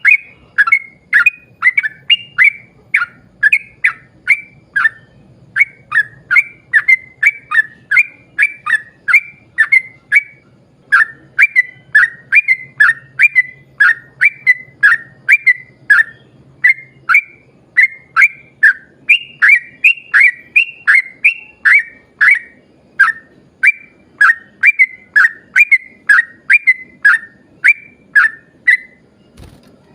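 Yellow-vented bulbul (trucuk) singing a long run of rapid, bubbly whistled notes, each one a quick falling note, several to a run with brief pauses between runs.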